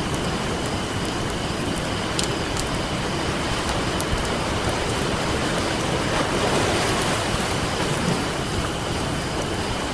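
Ocean surf washing on a beach under a crackling campfire: a steady rush of waves with a few sharp pops from the burning wood, and a wave swelling a little louder about six seconds in.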